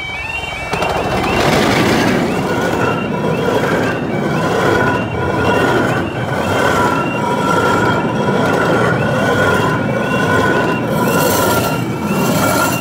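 Romney, Hythe and Dymchurch Railway miniature steam train passing close by: the locomotive, then a long rake of carriages running over the rails, getting loud about a second in and staying loud as the carriages go past. Under it, the level crossing's warning alarm keeps sounding its repeating two-tone call.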